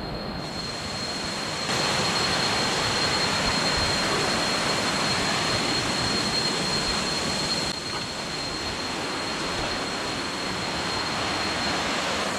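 Waterfall water rushing in a steady, even hiss that steps louder about two seconds in and eases slightly about eight seconds in.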